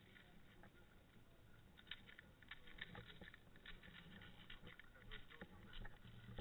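Faint, irregular rustling and crackling, many small clicks thickening from about two seconds in, like a person moving through dry undergrowth.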